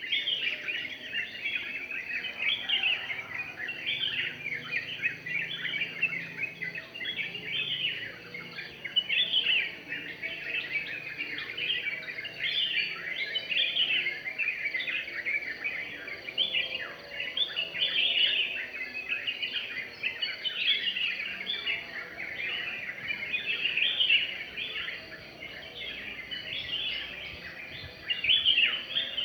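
Birds chirping and singing without a break, a dense run of quick high notes.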